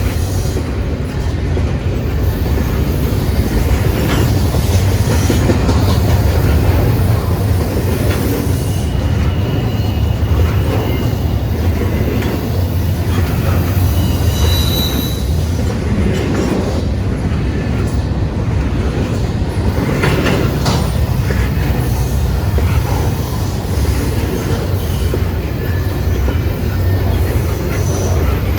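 Freight train cars rolling past on the rails: a steady rumble of wheels with rail-joint clatter and a brief high-pitched wheel squeal about halfway through.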